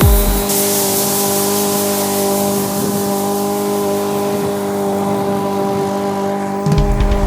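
Mower engine running steadily at a constant speed.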